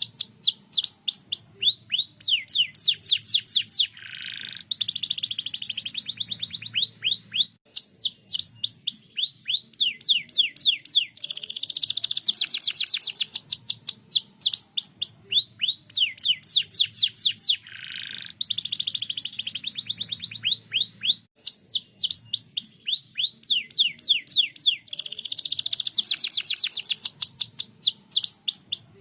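Domestic canary singing persistently: a long, fast trilling song of rapid downward-sweeping high notes, breaking off briefly twice.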